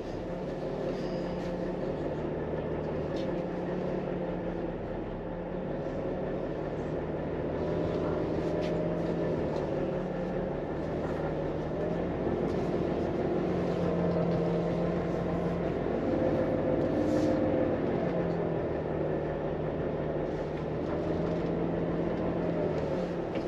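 Volvo FM 420 hp truck's diesel engine running, heard from inside the cab as a steady hum whose pitch shifts slightly up and down.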